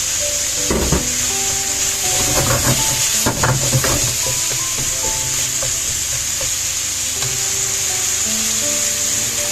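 Rice-noodle and vegetable stir-fry sizzling steadily in a frying pan as it is stirred, with a utensil clattering and scraping against the pan about a second in and again several times in the middle.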